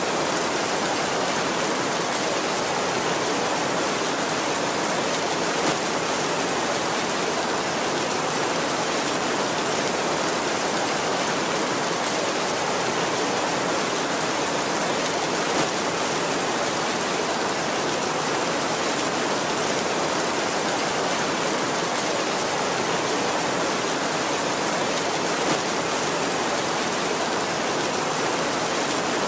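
Heavy rain drumming steadily on a tin roof, an even hiss with no thunder. Three brief louder ticks come about ten seconds apart.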